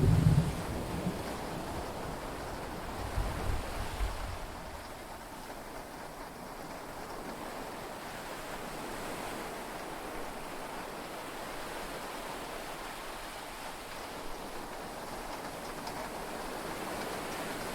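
Steady rain and sea-wave noise heard inside a yacht cabin during a storm at sea. A low thunder rumble is fading out at the start, and a second, weaker rumble comes about three seconds in.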